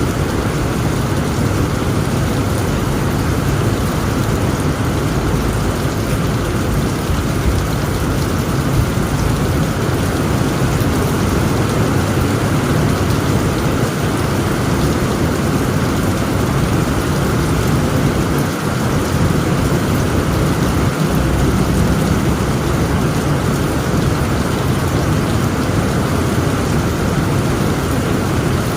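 Heavy rain falling steadily on a tent roof, over a continuous low rumble of storm and wind.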